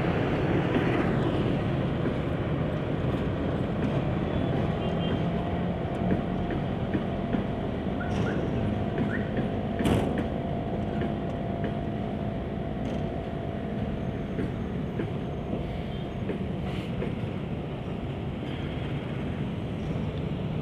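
Slow train of Kirow rail-crane wagons rolling past behind a CC206 diesel-electric locomotive: a steady rumble of engine and wheels on the rails. A faint steady squeal runs through the middle, and there is one sharp knock about halfway.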